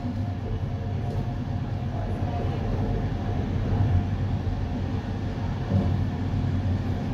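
Passenger train running along the track, heard from on board: a steady low rumble of wheels on rails with a faint hum above it.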